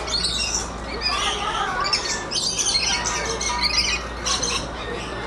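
Many birds squawking and chirping at once, a dense chatter of short, overlapping high calls.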